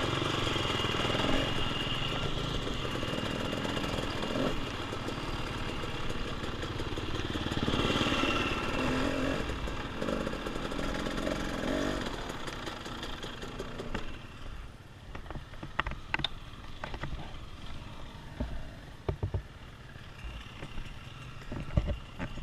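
Dirt bike engine running, its level swelling and easing, then falling away about fourteen seconds in, leaving scattered clicks and knocks.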